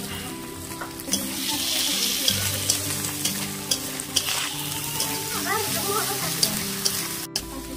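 Chopped tomatoes and spices sizzling in a hot metal kadhai, stirred and scraped with a metal spatula. The steady hiss of frying is broken by repeated sharp clicks of the spatula against the pan.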